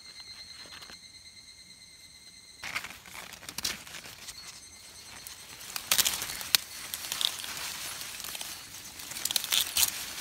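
Irregular crinkling and rustling of something dry being handled, with sharp crackles and tearing sounds, loudest about six seconds in and again near the end. For the first couple of seconds a steady high-pitched whine sounds alone.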